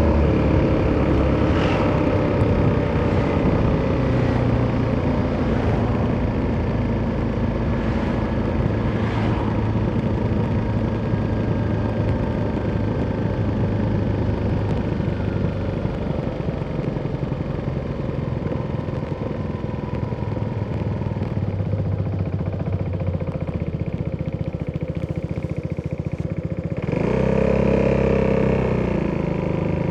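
Italjet Dragster 200's single-cylinder four-stroke engine through an Akrapovic exhaust, running at a steady light cruise with its note slowly sinking. Near the end the throttle opens briefly, and the engine note rises, swells louder and then drops back.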